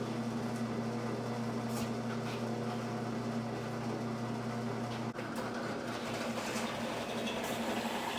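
Drill press motor running steadily with a constant hum, its sound turning rougher and uneven about five seconds in.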